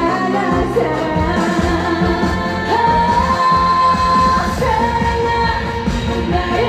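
Korean trot song performed live: a singer over a full band backing, with a long held note in the middle.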